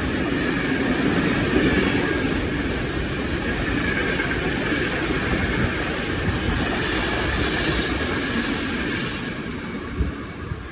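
A train led by an FS E.494 electric locomotive passing: steady noise of wheels on rail that eases off near the end, with a single knock about ten seconds in.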